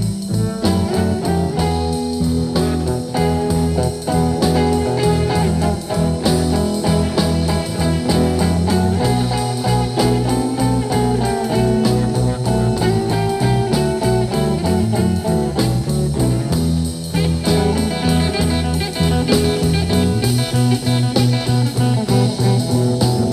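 Blues guitar instrumental break: a guitar playing over a steady bass line and beat, with no singing.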